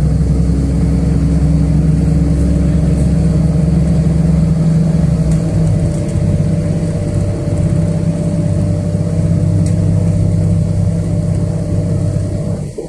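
City bus engine and drivetrain running under way, heard from inside the passenger cabin as a loud steady hum. Its tone shifts about five seconds in, and the sound drops away abruptly just before the end.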